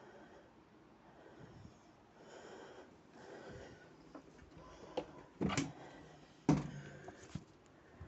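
A few clicks and knocks, then the loudest sound, a heavy thump about six and a half seconds in with a short low ring, and one more small click after it.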